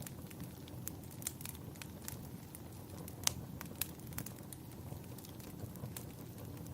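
Wood fire burning in a fireplace: scattered sharp crackles and pops over a steady low rumble, with one louder pop about three seconds in.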